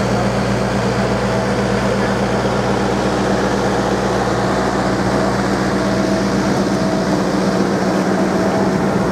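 An engine running steadily, a constant low hum with an even pitch.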